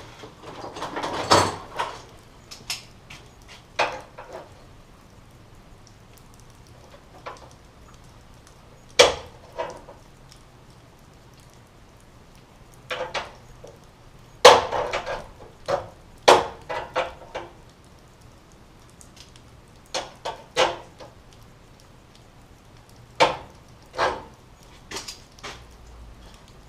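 Scattered knocks and clanks, singly and in short rapid clusters, from working on the bent front bumper parts of a Mazda RX-7 FC; the hardest bangs come about nine and fourteen seconds in.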